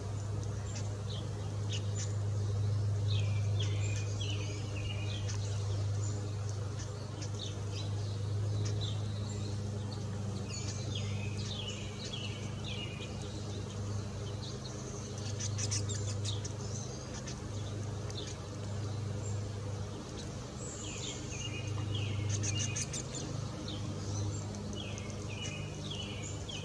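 Small birds chirping in several bursts of short, quick, falling notes, over a steady low hum.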